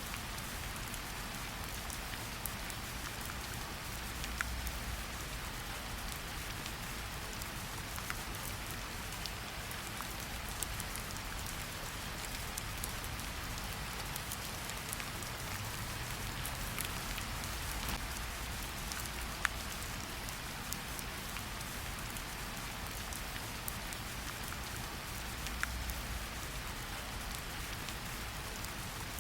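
Steady rain falling on forest foliage, a continuous hiss with scattered individual drops ticking close by.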